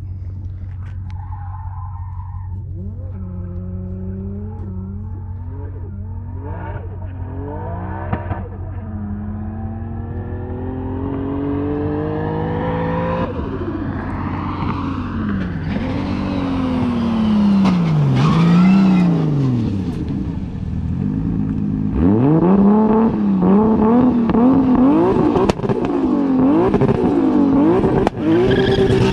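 Nissan S15 drift car's engine revving up and down through a drift run, its pitch rising and falling again and again, with tires skidding. It grows louder about halfway through and is loudest near the end, over a steady low hum.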